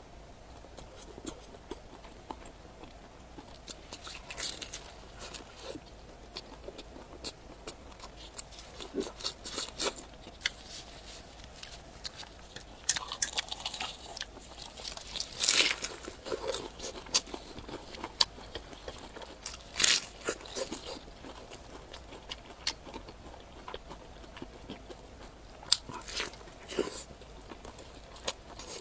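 Close-up eating sounds: a person biting and chewing crunchy food, with irregular sharp crunches and crackles. The loudest bites come around the middle.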